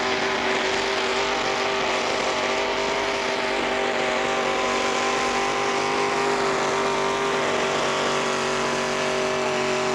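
Tractor engine running flat out under heavy load as it drags the pulling sled, a steady drone that holds its pitch and sags slightly near the end.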